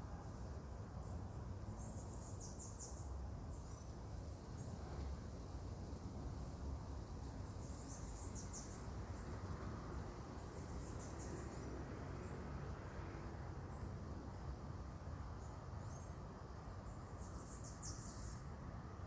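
Insects chirping in short, very high trills that come in several separate bursts, over a steady low rumble.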